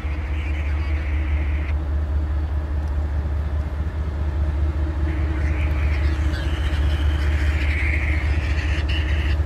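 A train's steady low rumble, with a higher hissing band that drops away about two seconds in and comes back from about five seconds in.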